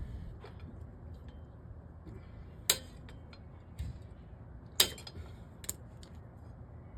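A handful of sharp metallic clinks and taps, the loudest about three and five seconds in, as metal tools and car parts are handled during a repair, over a low steady rumble.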